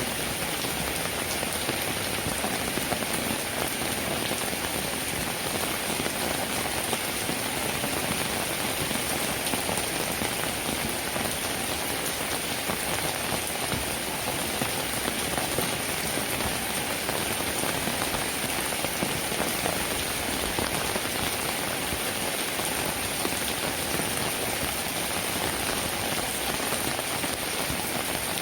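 Steady rainfall, an even hiss of many raindrops without let-up.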